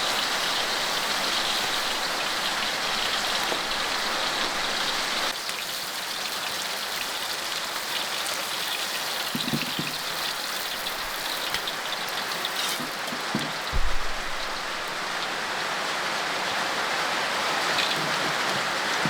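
Steady rain falling, an even hiss, with a few low knocks; the loudest is a thump about 14 seconds in.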